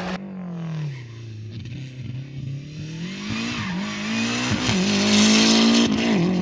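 Rally car engine under power: revs fall about a second in, then climb again with three quick dips, growing louder toward the end.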